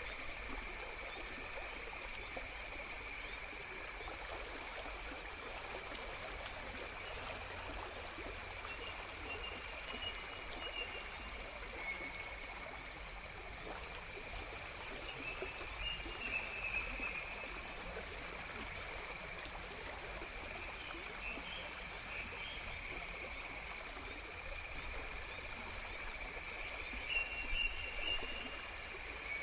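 Steady running water of a stream under a constant high insect trill, with a few short bird chirps. A rapid pulsing call starts about 13 seconds in and lasts a few seconds, then returns briefly near the end.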